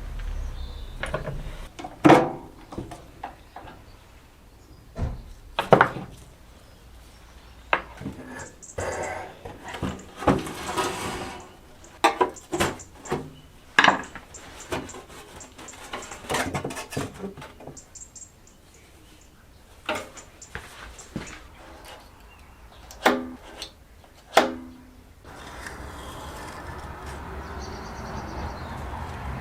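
Workshop handling sounds: irregular clicks, knocks and light clinks of parts and tools being picked up and set down on a bench, with some rubbing. A steady background hiss comes in near the end.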